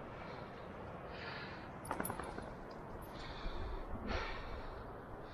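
Heavy breathing of a hiker climbing a steep hillside, a hissing breath about every second, over low wind rumble on the microphone.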